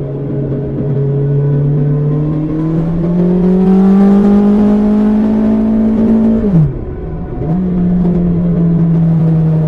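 BMW S1000XR's inline-four engine running through an Akrapovic exhaust, its note rising slowly as the bike accelerates. About six and a half seconds in the pitch drops sharply for a moment, then the engine pulls again at a steady note.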